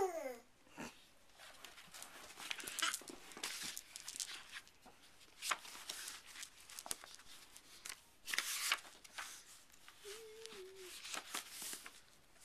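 Irregular rustling and light clicking from things being handled and moved, with a short falling vocal squeal right at the start.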